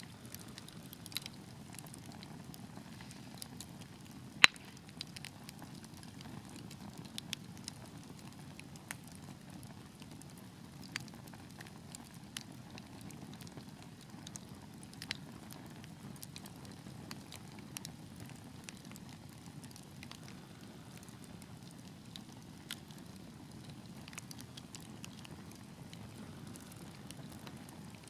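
Wood fire burning in a fireplace: a steady low rush of flames with scattered crackles and pops, one sharp pop standing out about four and a half seconds in.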